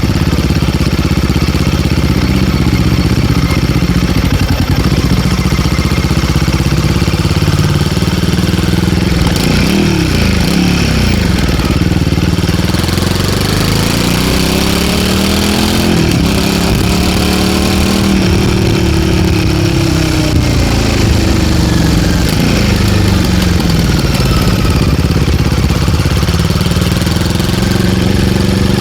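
Royal Enfield Guerrilla 450's single-cylinder engine running through an MTG link pipe that replaces the stock catalytic converter section, its revs rising and falling several times.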